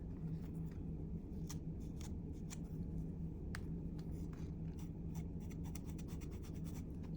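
Distress Oxide ink being rubbed and dabbed onto the torn edges of a paper, a soft scratchy rubbing with many small irregular ticks, softening the white edges with colour.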